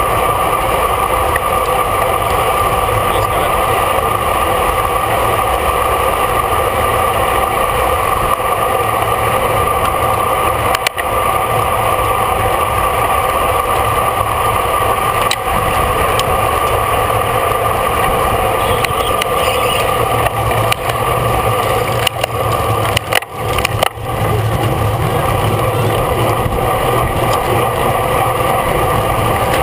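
Steady rush of wind and road noise from riding a road bicycle at race speed, with a couple of brief dropouts in the second half.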